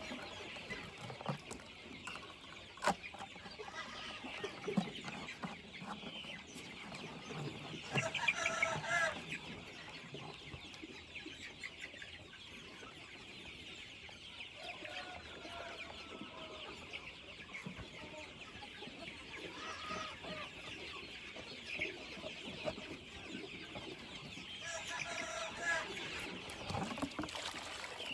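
Free-range chickens clucking, with a few louder drawn-out calls about eight seconds in and again near the end, over a steady high hiss.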